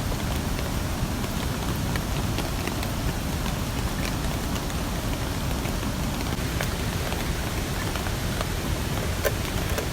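Rain falling steadily, with scattered sharper drop hits.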